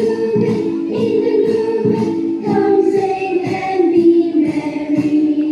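A group of voices singing together, held notes over a steady beat of about two strikes a second.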